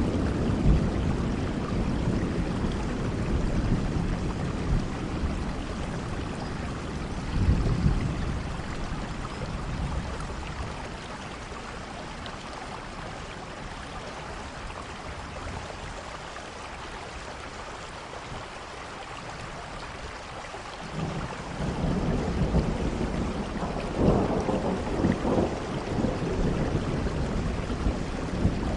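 Steady rain hissing, with low rolling rumbles of thunder: a rumble fading out at the start, a short one about a quarter of the way in, a quieter stretch of rain alone in the middle, then the rumbling returns and swells near the end.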